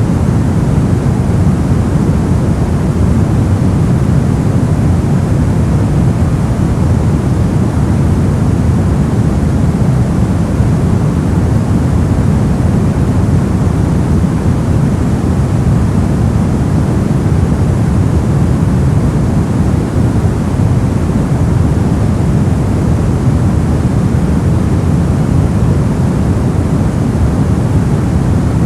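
Steady noise track sold as white noise, loud and unchanging, heavier in deep rumble than in hiss.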